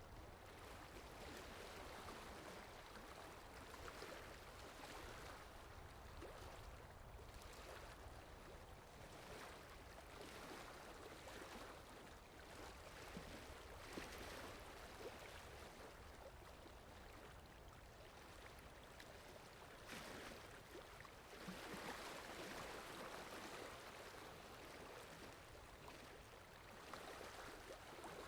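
Faint flowing-water ambience from a water sound effect, a continuous wash that swells and eases every few seconds.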